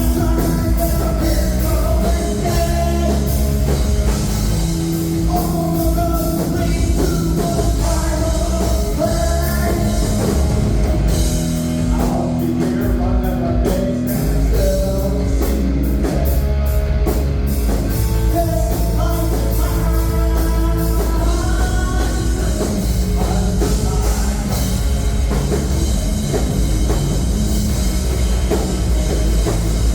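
Live heavy rock band playing loud and steady: drum kit, bass and guitar.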